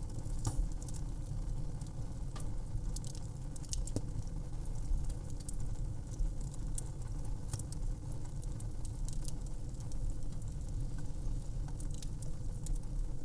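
Wood fire crackling: irregular sharp snaps and pops, a few a second, over a steady low rumble of the burning.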